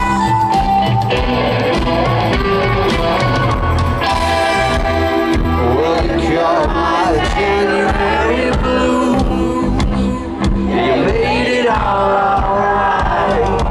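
A rock band playing live in a concert arena, with a man singing over the band.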